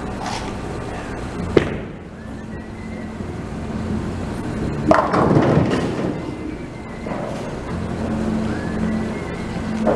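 A bowling ball rumbles down the lane and crashes into the pins about five seconds in, over bar background noise. There is a sharp knock about a second and a half in.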